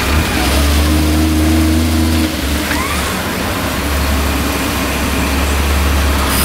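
Off-road 4x4 engine running steadily at low revs, with a heavier note for the first two seconds, then a little quieter.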